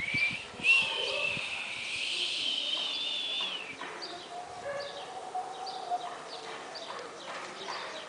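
Birds chirping and calling, with one long, high, slowly rising note lasting about three and a half seconds at the start.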